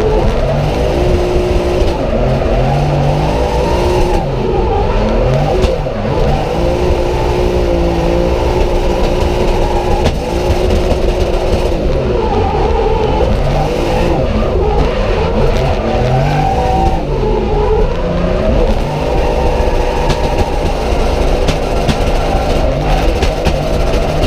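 Drift cars' engines revving hard on track, their pitch rising and falling again and again with several engines overlapping.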